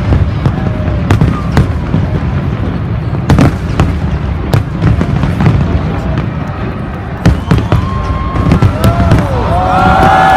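Fireworks going off: a rapid, irregular run of sharp bangs over a continuous rumble of distant explosions. Near the end, a crowd starts shouting and cheering.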